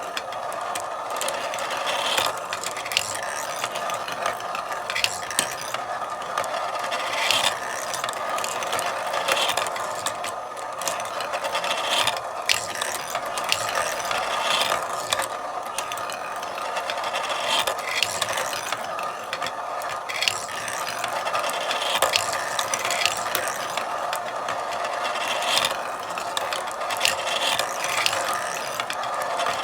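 Marbles rolling along a marble run track, a continuous rolling rumble with frequent irregular clicks and knocks as they hit the track and each other.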